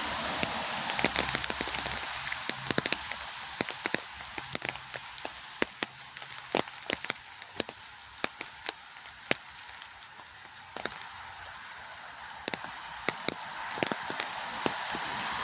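Rain falling: a steady hiss of rain with many sharp, irregular ticks of single drops striking close by. The hiss eases off in the middle and swells again near the end.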